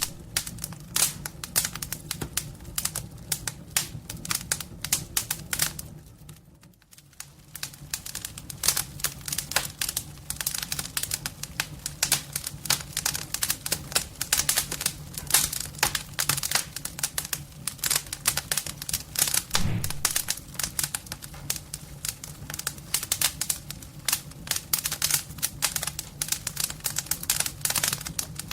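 Wood fire crackling hard in a homemade fireplace, dense irregular pops and snaps over a steady low hum, dropping away briefly about six seconds in.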